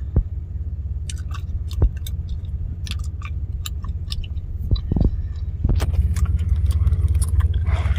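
Close-up chewing of bubble gum, a scatter of small wet clicks, over the steady low rumble of a truck's engine idling.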